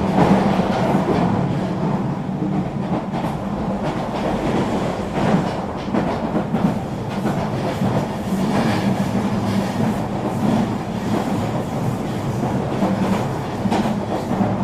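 Eurobahn Stadler FLIRT electric regional train running at speed: a steady rolling rumble with occasional wheel clicks over rail joints.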